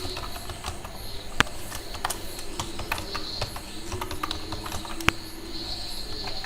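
Typing on a computer keyboard: irregular keystroke clicks, with two louder clicks among them.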